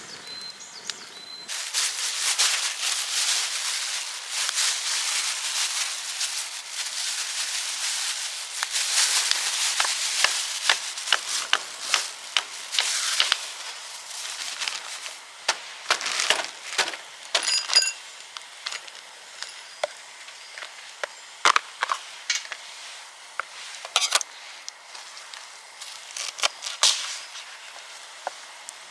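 Dry wood crackling and snapping: a dense run of crackle for about ten seconds, then scattered sharp snaps.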